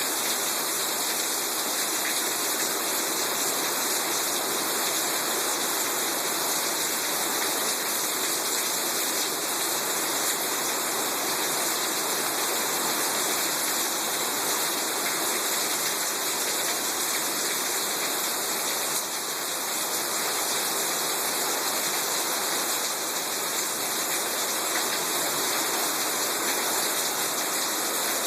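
Heavy rain pouring down in a thunderstorm, a steady dense hiss without a break.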